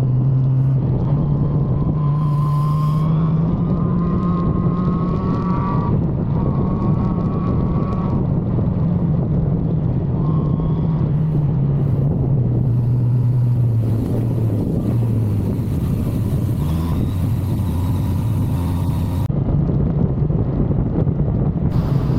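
1985 Suzuki GSX-R750F inline-four engine running under way as the bike is ridden. The engine note climbs in the first few seconds, then eases down slowly, drops further about two-thirds of the way through and picks up again near the end, over steady wind noise.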